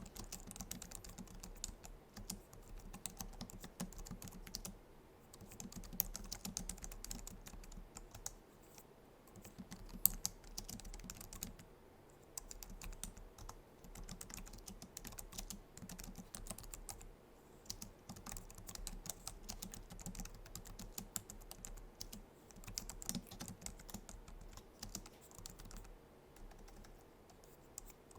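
Steady typing on a Logitech MX Keys keyboard, its low-profile scissor-switch keys clicking in quick runs with short pauses, and one sharper keystroke about ten seconds in.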